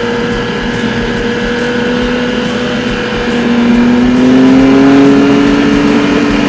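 Adventure motorcycle engine running at steady speed, then its pitch and loudness climb over about a second as it revs up past the middle.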